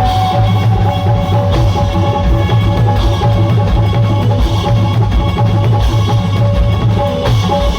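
Loud live band music, instrumental, with a fast, steady drum beat and held melody notes over it.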